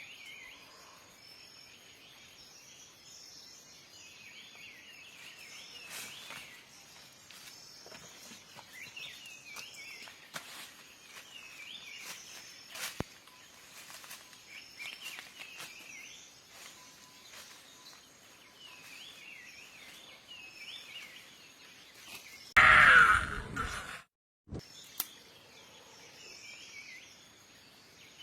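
Small birds calling in short, repeated chirping phrases over outdoor ambience, with a few sharp clicks. About three quarters of the way through, a loud burst of noise lasts about a second and is followed by a brief dropout.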